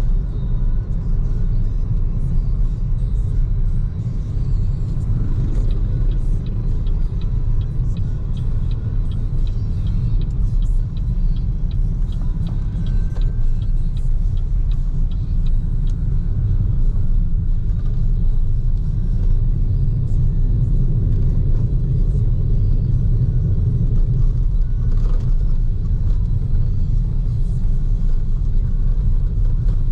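Steady low road and tyre rumble inside the cabin of a moving BYD Seagull electric car, with no engine note. About a third of the way in comes a run of quick, even ticks lasting a few seconds.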